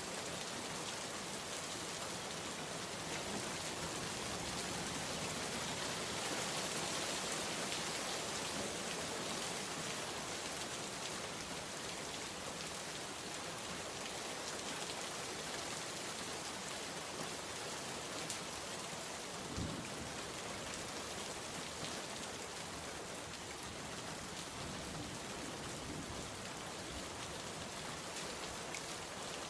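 Steady rain falling and pattering on a surface, an even hiss with scattered drop ticks. A single soft low thump sounds about two-thirds of the way through.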